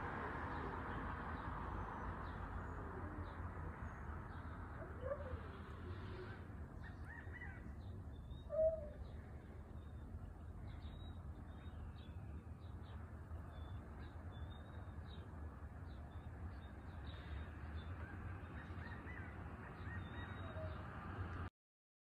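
Faint background of steady low noise with scattered distant bird calls, the loudest a single short call about a third of the way in, and small high chirps in the middle. The sound cuts off suddenly near the end.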